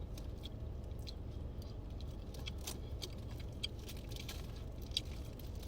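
Mouth sounds of someone eating fried chicken close to the microphone: scattered soft clicks and smacks of chewing, over a steady low hum.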